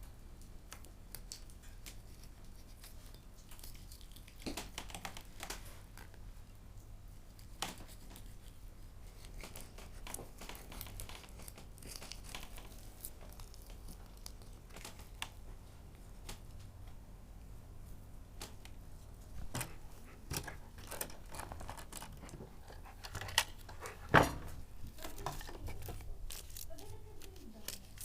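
Quiet food-preparation handling: scattered light clicks, rustling and tearing sounds, with two sharper knocks about three-quarters of the way through.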